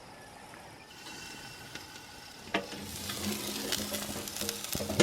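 Ribeye steak sizzling on a grill, faint at first. A sharp clack comes about two and a half seconds in, and the sizzling grows louder after it, with a few clicks near the end.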